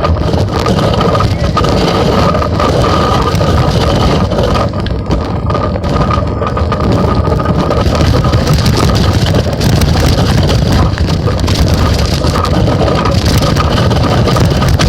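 A phone riding in a child's bicycle basket, picking up a steady loud rumble with frequent rattling knocks as the bike rolls, wind on the microphone, and a faint steady whine.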